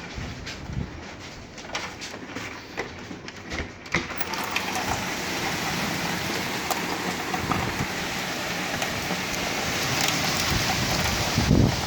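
A hailstorm: at first, scattered sharp taps of hailstones and rain hitting a surface. About four seconds in it becomes a dense, steady downpour rattle. A loud low thump comes near the end.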